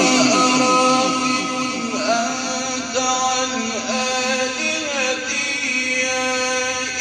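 A male Quran reciter's voice, amplified, holding a long, wavering melodic line in tajwid recitation.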